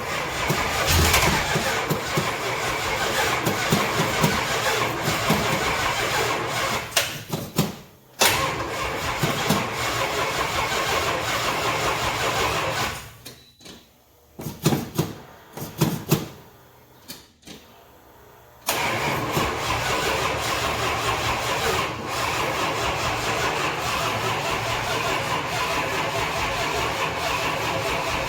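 400 big-block V8 being cranked over by its starter without catching. It goes as one long crank, a brief break, a second crank, a few short bumps of the starter, then another long crank near the end.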